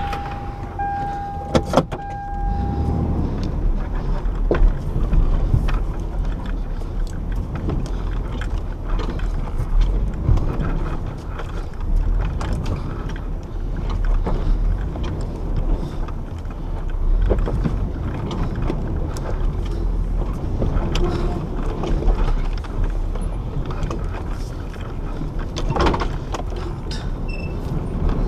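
Toyota Tacoma crawling a rocky 4x4 trail: a steady low engine rumble with frequent knocks and clicks from the truck working over rock.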